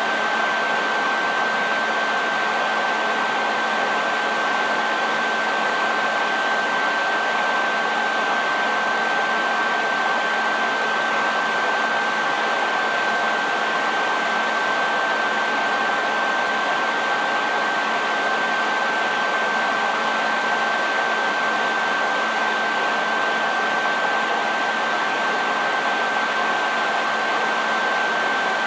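Hair dryer running steadily: an even rushing hiss of air with a constant high-pitched whine from the motor and a faint lower hum, unchanging throughout.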